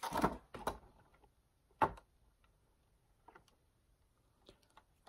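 Knocks and clicks of objects being handled: a short cluster at the start, one louder knock just under two seconds in, then a few faint clicks.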